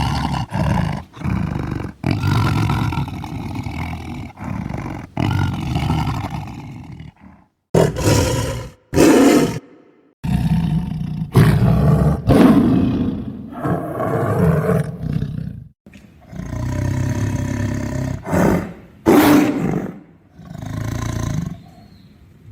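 Tiger roaring and growling in a series of rough, low calls, each lasting a second or a few seconds, with short pauses between them.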